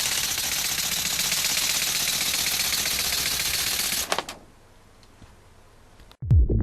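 LEGO pneumatic inline four-cylinder engine running fast: a rapid clatter of valves and pistons over hissing air, which stops about four seconds in, leaving a faint hiss. Electronic music starts near the end.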